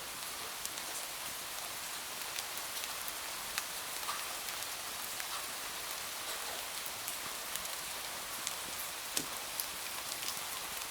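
Steady rainfall: an even hiss dotted with scattered sharp ticks.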